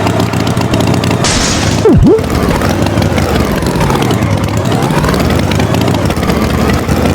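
An engine running steadily with a low rumble, with a brief hiss about a second in and a quick swooping whistle about two seconds in.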